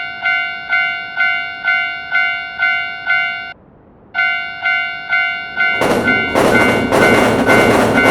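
Railroad crossing warning bell ringing about twice a second, each strike decaying, with a short break midway. About six seconds in, a passing train joins it: a loud rumble with rhythmic wheel clatter while the bell keeps ringing.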